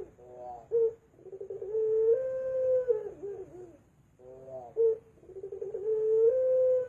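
Puter pelung dove cooing: two low song phrases, each opening with a few short notes and then drawing out into a long held coo that wavers and drops at the end.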